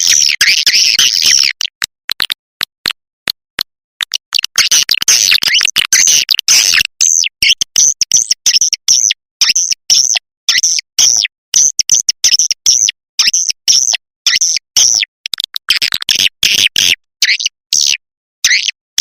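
Recorded swiftlet calls used as a lure to draw swiftlets into a nesting house: a dense, overlapping chatter of high chirps, thinning out after about seven seconds into separate short chirps with clean silent gaps between them.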